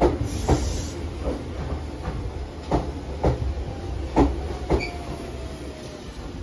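Iyotetsu 700 series electric train pulling into a station: its wheels clack over rail joints in pairs, the pairs coming further apart as it slows, over a low rumble. A faint falling whine in the second half fades as the train comes to a stop.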